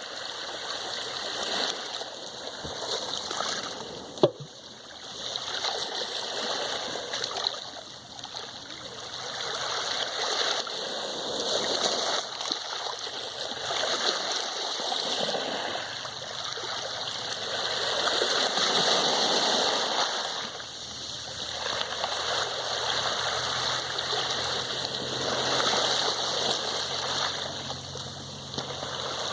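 Sea waves washing in a steady hiss that swells and ebbs every few seconds, with a sharp click about four seconds in.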